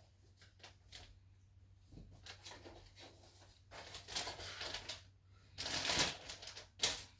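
Rustling and handling noises as 3D-printer parts and packaging are moved about, in several bursts, the longest about four and six seconds in, with a sharp click near the end.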